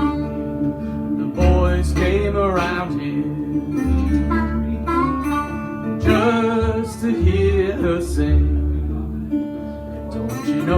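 Blues band playing a guitar-led passage with no sung words. Acoustic guitar sits over bass notes that change every second or two, while a lead line bends up and down in pitch.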